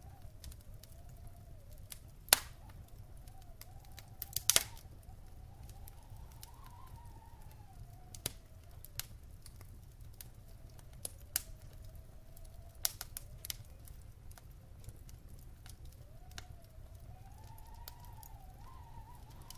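Wood fire crackling in a fireplace: scattered sharp pops and snaps over a low steady rumble, the loudest pops about two and four and a half seconds in. A faint whistling tone wavers slowly up and down underneath.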